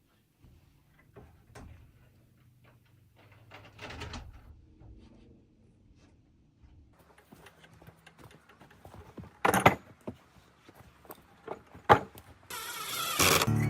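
Scattered light taps and knocks of small building pieces being handled and fitted, with a louder thud about nine seconds in and a sharp knock a couple of seconds later. Music starts near the end.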